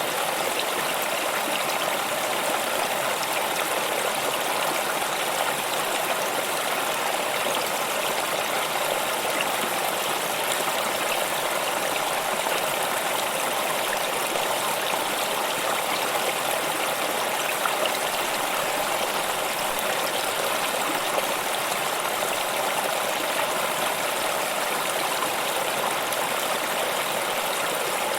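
Flowing stream: water running and trickling over rocks, a steady rushing with no change.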